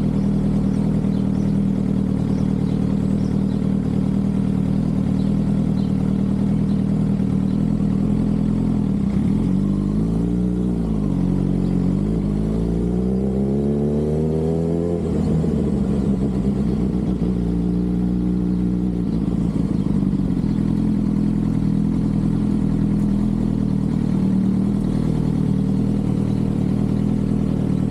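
Sport motorcycle engine running steadily while cruising. About ten seconds in it dips and then revs up with a rising pitch, drops sharply at a shift, and pulls up again before settling back to a steady cruise.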